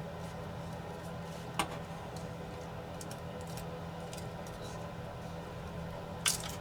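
Two sharp clicks, about a second and a half in and near the end, with a few fainter ticks between, as the small plastic parts of a DJI Mini 4 Pro's replacement arm and hinge are handled on the bench, over a steady low hum.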